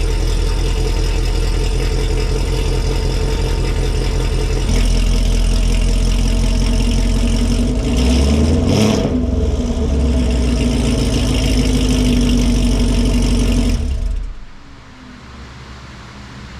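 Camaro 2SS 1LE's 6.2-litre V8, with long-tube headers, no catalytic converters and a custom tune, idling loudly after a cold start, with a brief blip of the throttle about halfway through. The engine cuts off about fourteen seconds in, leaving only a faint hiss.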